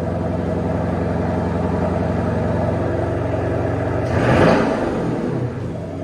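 2024 Porsche Cayenne S Coupe's twin-turbo V8 running through its sport exhaust at a steady idle, then revved sharply once about four seconds in, with a second rev starting at the very end.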